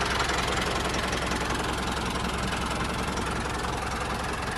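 Engine idling steadily with a rapid, even knocking beat.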